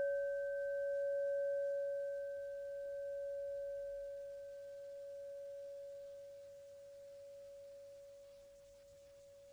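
A struck meditation bell, singing-bowl type, ringing out and slowly fading: one low tone with a fainter higher overtone and a gentle wavering pulse, marking the end of the meditation.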